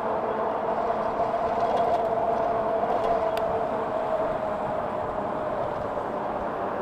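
60-volt e-bike's electric motor whining while riding at speed, a steady high tone that eases slightly lower in pitch, over a constant rush of wind and tyre noise.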